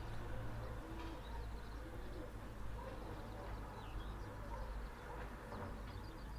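Birds chirping and calling in short scattered notes over a steady low rumble.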